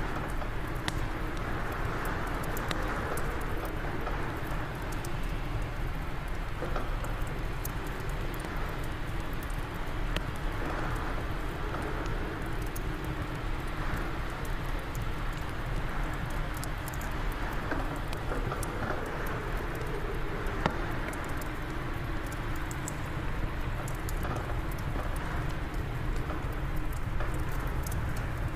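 Wood fire crackling in a fireplace, with many small sharp pops scattered irregularly, over a steady low rush of wind.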